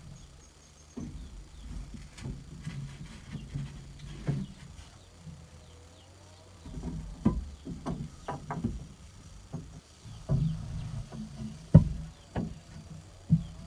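Irregular knocks and thumps at uneven intervals, the loudest about twelve seconds in, over a low steady hum.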